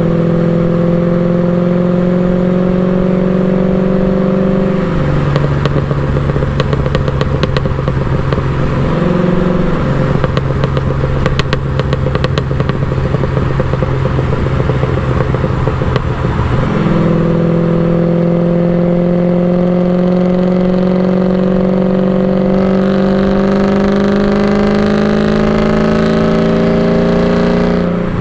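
LS1 V8 engine and exhaust of an LS-swapped BMW E36 on the move, running at a fairly steady moderate speed. The engine note drops about five seconds in and runs lower for a while, with scattered crackling from the exhaust. A little past halfway the note steps up, then climbs slowly under light acceleration.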